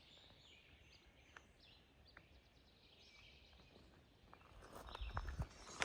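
Quiet woodland with a few faint, scattered bird chirps, then footsteps on a trail starting up near the end.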